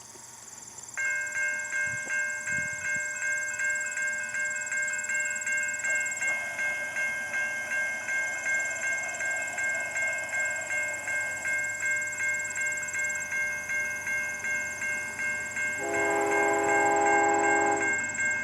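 Railroad crossing bell ringing in a steady, even rhythm, joined near the end by a locomotive horn sounding one blast of about two seconds for the crossing.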